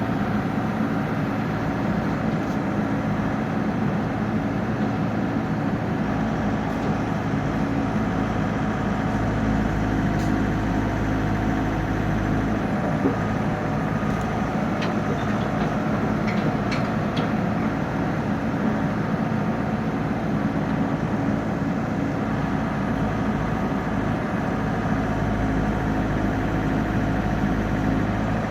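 Komatsu PC78 excavator's diesel engine running steadily while digging, its low note swelling for stretches of several seconds at a time. A few faint clinks about halfway through.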